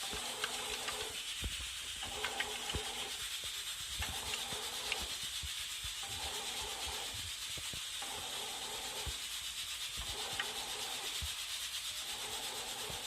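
Britânia bread machine mixing flour, warm water and yeast. Its kneading motor hums in runs of about a second and a half with short pauses, about every two seconds, over the scraping rub of the paddle through the mix in the pan.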